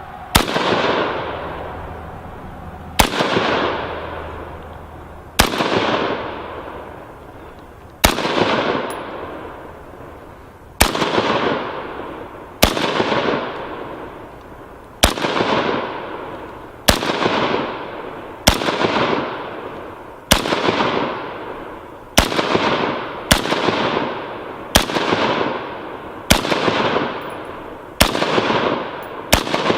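AR-15 rifle fired in single shots, about sixteen in all. Each is a sharp crack followed by a long echo that dies away over a second or two. The shots come about every two and a half seconds at first and quicken to about every one and a half seconds.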